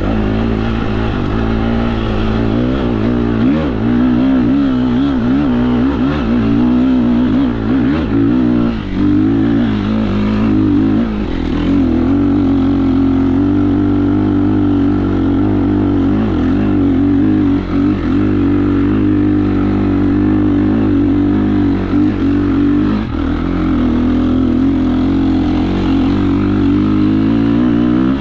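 KTM 350 SX-F four-stroke single-cylinder dirt bike engine revving up and down while trail riding. Its pitch rises and falls constantly with throttle changes, with a few short drops off the throttle.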